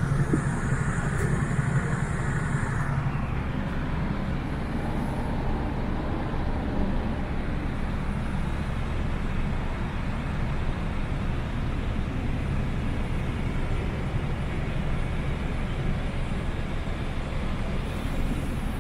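Mercedes Actros 2545 tractor unit's diesel engine running steadily, with a thin high whine over it for the first three seconds or so.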